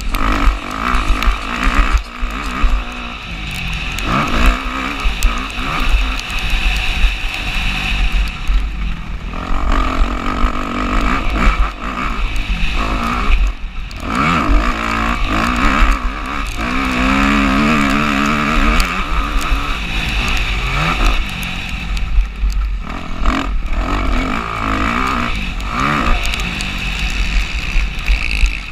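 Motocross bike engine revving up and down through the gears at race pace, picked up by a GoPro Hero 4's microphone, with a heavy low rumble and scattered knocks throughout.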